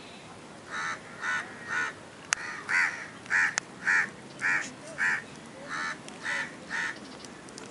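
A bird calling in a series of about eleven short, harsh calls, roughly two a second, loudest in the middle of the series.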